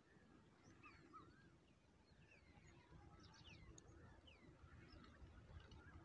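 Faint background birdsong: several wild birds chirping, with many short, falling whistled notes scattered throughout, over a low rumble.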